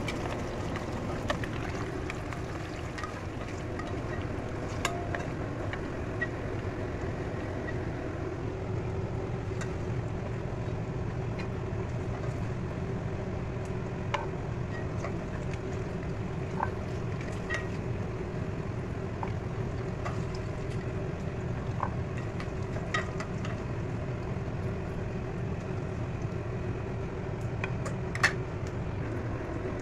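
Boiled eggs frying in hot oil in a pan: a steady sizzle over a low rumble, with scattered small pops and clicks.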